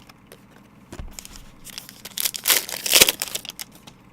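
Crinkling and tearing of a trading-card pack's wrapper as it is opened by hand, a burst lasting about two seconds that starts near the middle, after a few light clicks of cards being handled.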